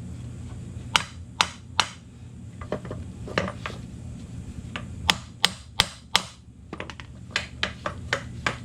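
Hammer tapping on a newly installed universal joint in a drive shaft yoke: a series of sharp metal taps in irregular groups, coming faster near the end, over a steady low hum. The taps seat the joint's bearing caps and free up a binding U-joint.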